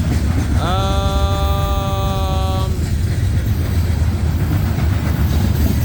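Loaded coal hoppers of a slow freight train rolling past with a steady low rumble. About half a second in, a single held tone rises briefly and then holds for about two seconds.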